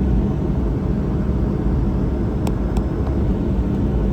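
Cabin noise inside a Boeing 737-800 taxiing after landing: a steady low rumble from the engines at taxi power and the airframe rolling. Two faint clicks come about two and a half seconds in.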